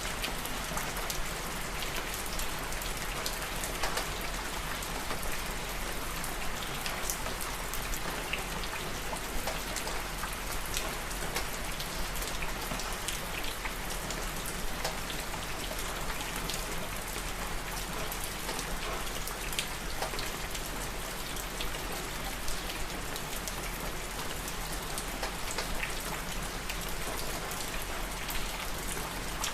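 Steady rain falling and pattering on surfaces, with many small drop ticks scattered through an even hiss.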